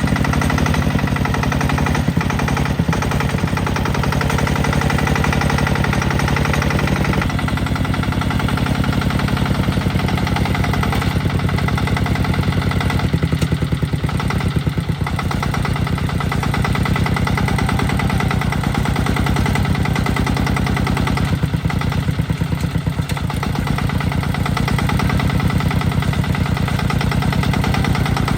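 Tractor engine running steadily with a rapid, even chugging beat. Its pitch shifts slightly about seven seconds in.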